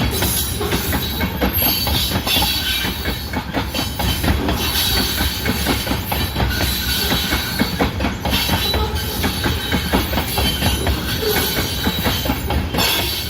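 CN mixed-freight train rolling past, with steel wheels clicking and clattering steadily over the rails.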